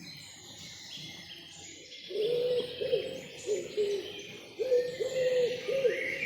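An owl hooting: a run of low, repeated hoots that starts about two seconds in and is the loudest sound. Small songbirds chirp and trill higher up throughout.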